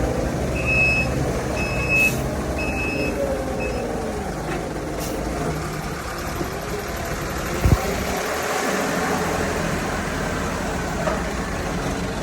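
A heavy vehicle's engine running steadily, with a warning beeper sounding four times, about a second apart, in the first few seconds. A single sharp knock comes a little under eight seconds in.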